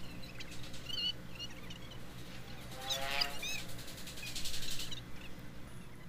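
Birds chirping in short high calls, with one louder, fuller call about three seconds in, over a faint steady hum.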